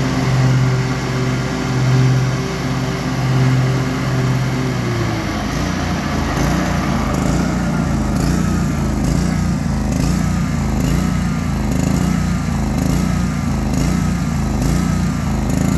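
Gravely 48-inch walk-behind mower engine running steadily, its note swelling about once a second; about five seconds in the pitch drops and the sound turns rougher, with a faint chirp repeating about once a second.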